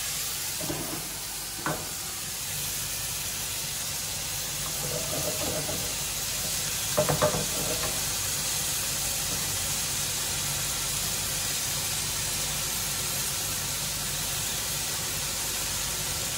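Food sizzling in pans on a gas hob, a steady hiss, with a few knocks of a spoon against a pan about two seconds in and again about seven seconds in.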